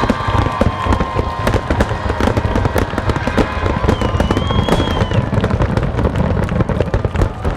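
Aerial fireworks going off in a rapid, dense barrage of bangs and crackles, one after another with no letup.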